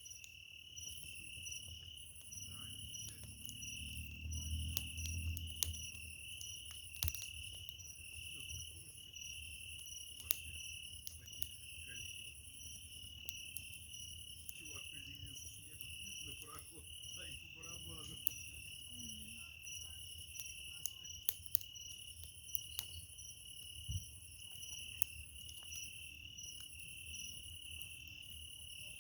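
Crickets chirping steadily in a pulsing high trill, with burning firewood crackling and popping in scattered sharp snaps. There is a low rumble a few seconds in.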